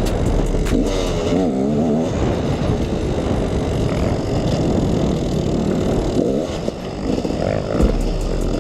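Two-stroke dirt bike engine running under way, its pitch rising and falling as the throttle is worked.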